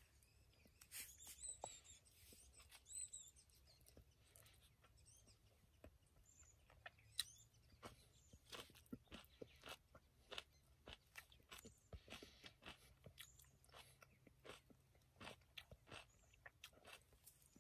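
Quiet close-up chewing of food, with many small irregular crunchy clicks, several a second in the second half.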